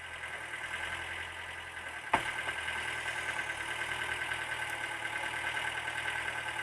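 An engine idling steadily with an even, rapid pulse, and one sharp knock about two seconds in.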